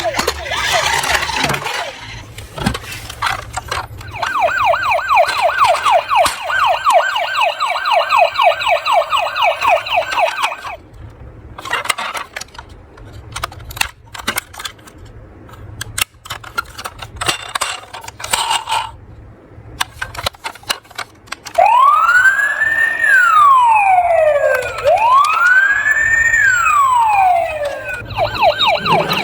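Electronic emergency-vehicle siren: first a rapid yelp, then a stretch of clicking and rattling, then two slow wails that each rise and fall, with the fast yelp returning at the end.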